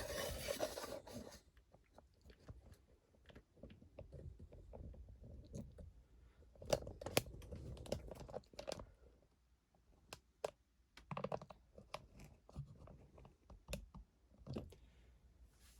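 Handling noise: a short rustle and scrape as the camera is repositioned at the start, then scattered light clicks, taps and scrapes as parts are handled.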